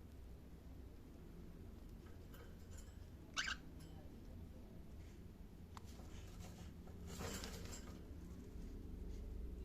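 Cockatiel giving one short chirp about a third of the way in, with soft rustling a few seconds later, over a low steady hum.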